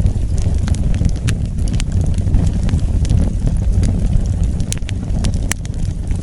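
Wood fire burning, with a steady low rumble of flames and scattered sharp crackles and pops from the burning wood.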